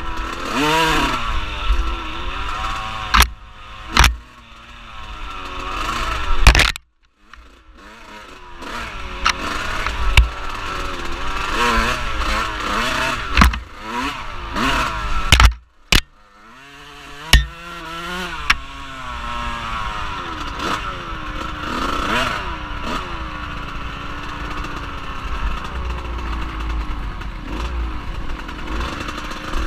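Off-road vehicle engine being ridden, its note rising and falling with the throttle, under a steady hiss and sharp knocks. The sound cuts out briefly twice.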